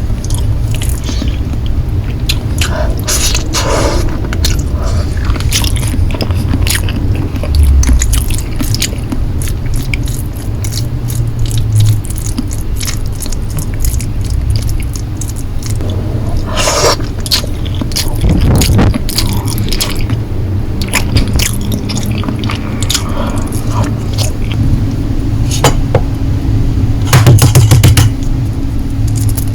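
Close-miked eating of Korean noodles: chewing and biting, with many sharp clicks and scrapes of utensils against the dish.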